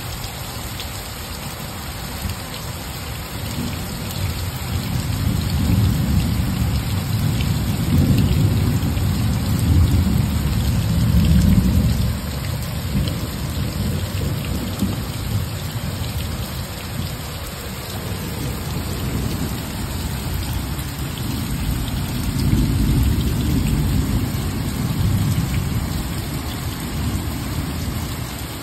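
Steady rain falling, with thunder rumbling low in two long swells: one building through the first half and a shorter one later on.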